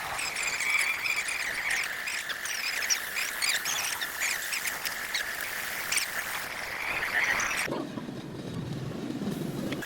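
Steady chorus of calling animals: a high trill with many scattered chirps. About three-quarters of the way through it breaks off and a lower hum takes its place, then the chorus returns just before the end.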